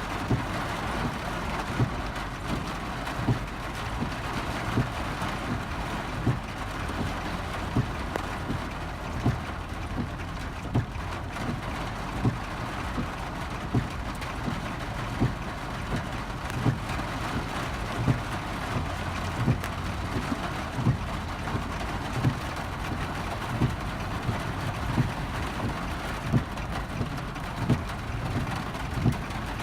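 Torrential rain pelting a car's roof and windshield, heard from inside the cabin as a dense steady hiss. A low thump repeats regularly about every one and a half seconds, in the rhythm of windshield wipers sweeping.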